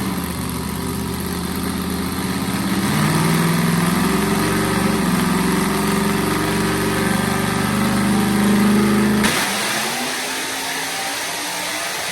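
408 cubic-inch stroker V8 on a 250-shot of nitrous during a burnout: it revs up over the first few seconds and holds high, stuttering against the rev limiter, then drops off sharply about nine seconds in and keeps running lower.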